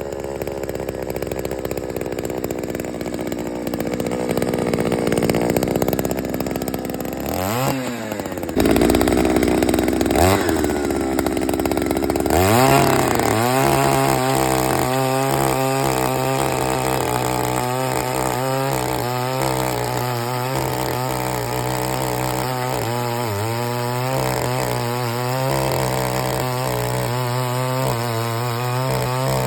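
A 68cc two-stroke earth auger engine running. It revs sharply up three times in the first half, then holds at high speed with its pitch wavering.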